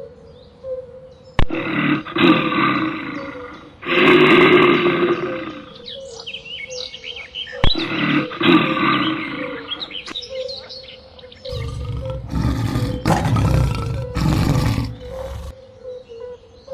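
A large wild animal roaring in several rough bursts of about a second each. The last ones are deeper and heavier. A faint steady tone runs underneath.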